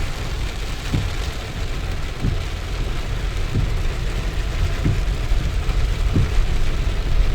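Steady rain with a low vehicle rumble underneath, and a soft stroke repeating regularly about every second and a quarter.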